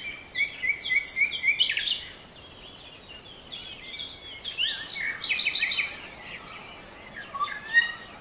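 Songbirds singing and chirping in high whistled notes: a quick run of repeated short notes over the first two seconds, more calls in the middle, and a few falling notes near the end, over a faint steady background hiss.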